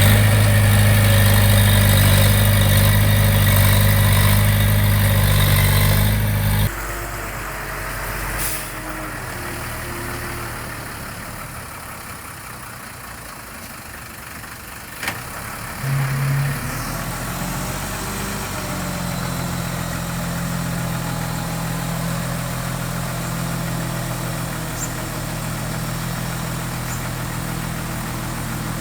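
Diesel engine of heavy construction machinery running at a steady speed, loud at first. About six seconds in it drops suddenly to a quieter steady engine sound, with a couple of brief knocks along the way.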